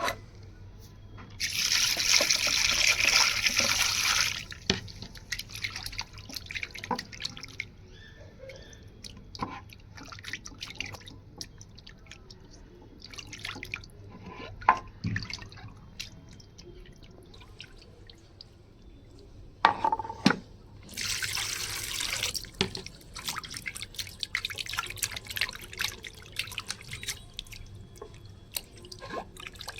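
Water running from a tap in two short spells, one near the start and one about two-thirds of the way through, with dripping and small knocks and clicks of handling in between.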